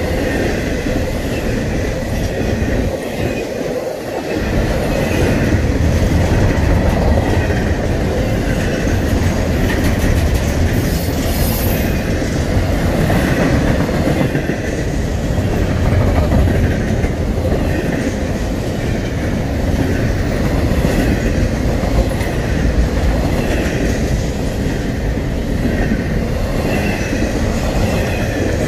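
Double-stack intermodal freight train rolling past close by: a loud, steady rumble of steel wheels on rail, with a rhythmic clickety-clack as each well car's wheel sets cross rail joints.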